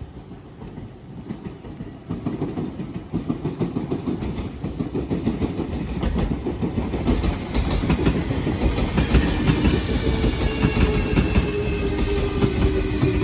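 A Chikuhi Line train approaching and passing, its wheels clicking over the rail joints over a rumble that grows louder. Near the end a whine sets in and dips slightly in pitch.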